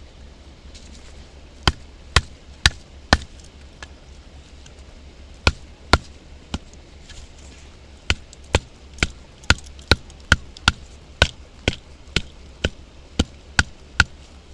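Batoning firewood: a baton striking the spine of a Mora knife driven into the wood, sharp knocks about two a second. Four blows, a pause, two more, then a long steady run of blows in the second half.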